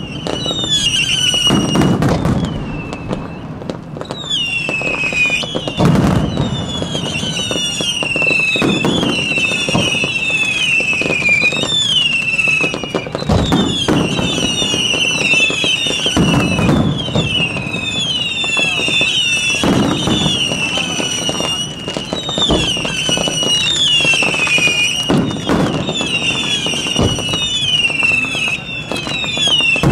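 Ground fireworks going off in a fast, unbroken run of short whistles, each dropping in pitch, over a crackling hiss, with a deeper thump every few seconds.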